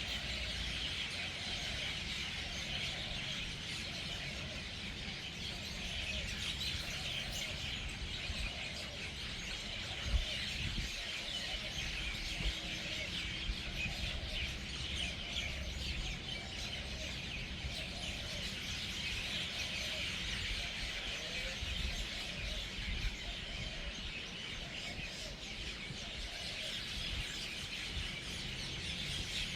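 Hundreds of birds gathering at an evening roost, a dense, unbroken chorus of chirping and chattering calls.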